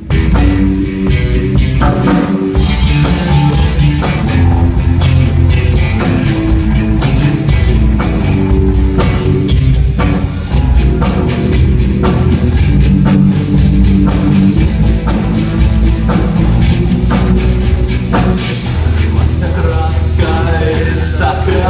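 Rock music: an instrumental intro with electric guitar and drum kit, with the full band coming in about two and a half seconds in.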